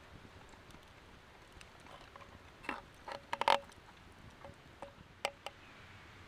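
A handful of short clicks and knocks, bunched together about halfway through with the loudest around three and a half seconds in, then a few lighter ones, over a faint steady hiss.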